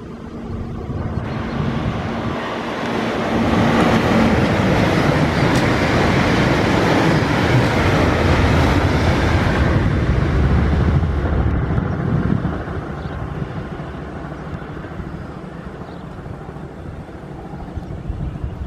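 Red electric multiple unit train approaching and passing close by: a swelling rush of wheels on rail and running gear, loudest in the middle, then fading away as it recedes. A steady low hum is heard at first and stops about four seconds in.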